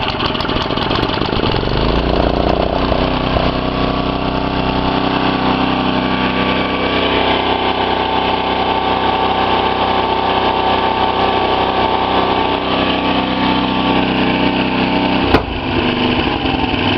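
Small tiller engine running steadily at full throttle just after starting, its pitch climbing about two seconds in as it settles. A sharp click comes about fifteen seconds in, and the engine runs on. It is running smoothly on a freshly rebuilt, rejetted carburetor.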